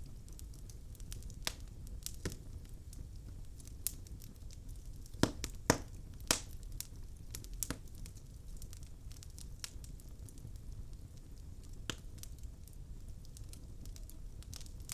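Wood logs burning in a fireplace, crackling with irregular sharp pops, a cluster of louder ones about five to six seconds in, over a low steady rumble of the flames.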